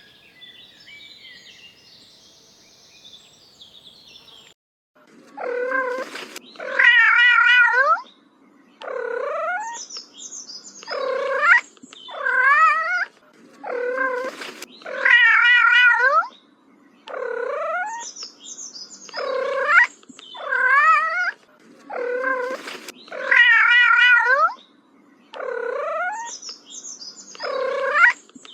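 A cat meowing and yowling over and over, drawn-out wavering calls about a second long, one after another, starting a few seconds in.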